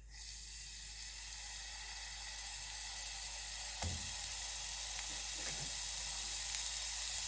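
Pieces of marinated boneless chicken sizzling in hot olive oil in a frying pan; the sizzle starts suddenly as the chicken goes in and grows steadily louder. A knock about four seconds in.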